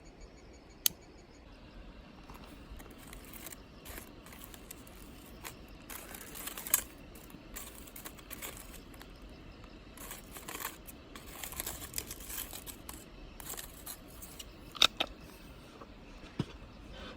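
Intermittent crinkling and rustling, as of something being handled, with a few sharp clicks: one about a second in, one near the middle, and a louder one near the end.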